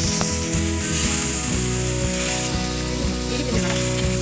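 Salmon fillets sizzling in melted butter on a hot ridged grill pan as they are laid down, a steady hiss that grows brighter about a second in. Background music with held notes plays underneath.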